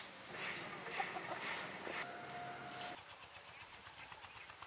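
Faint outdoor background with scattered bird calls and one short held call, growing quieter about three seconds in.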